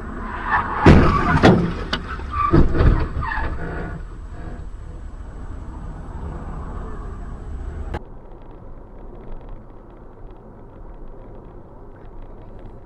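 Road vehicle running, with two clusters of loud knocks and bangs about a second in and again around two and a half seconds in, then steadier running noise.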